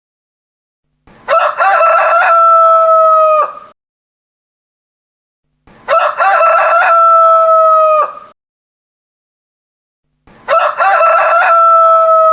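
Rooster crowing three times, about four and a half seconds apart, with dead silence between. Each crow has a short broken start, then one long steady note that ends abruptly. The three crows look identical, as if the same crow is repeated.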